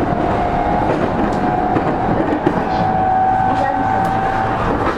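Interior running noise of a JR East E231 series 0 electric commuter train, heard inside a motor car: a steady rumble of wheels on rail, with a few sharp clicks and a steady whine from the traction motors.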